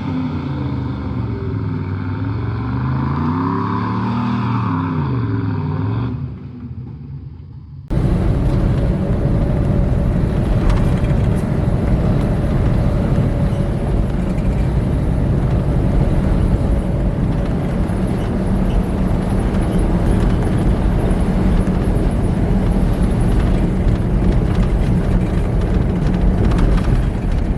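Off-road truck engines revving up and down. After an abrupt cut about eight seconds in, a loud, steady engine and driving noise with a constant drone.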